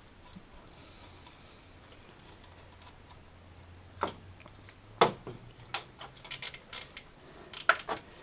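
Sharp metallic clicks and taps of hand tools and a small nut on a car alternator's terminal as it is refitted: a few single knocks, the loudest about five seconds in, then a run of quick clicks near the end.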